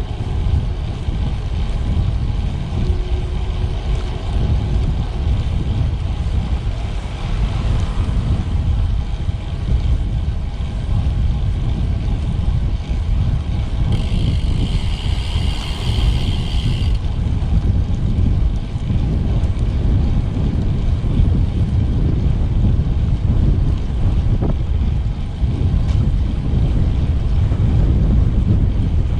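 Wind buffeting the microphone of a camera riding on a moving road bike: a steady, loud low rumble. About halfway through, a high-pitched tone sounds for about three seconds.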